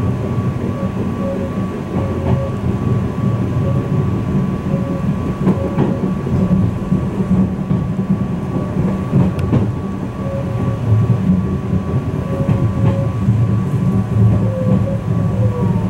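Izukyu 2100 series 'Resort 21' electric train running, heard from on board: a steady low rumble of wheels on rail with a thin steady whine. A few scattered clicks come from the rails, and a tone falls in pitch near the end.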